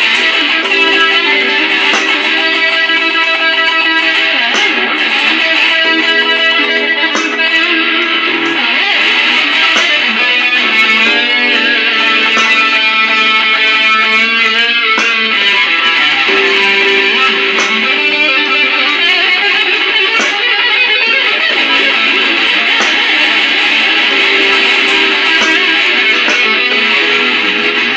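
Electric guitar playing a blues in 3/4 time through a Digitech effects unit. It plays sustained notes with a few string bends just before the middle.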